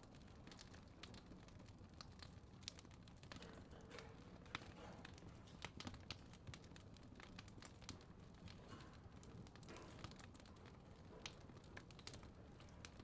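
Faint fireplace crackle: irregular small pops and snaps over a low, steady rumble.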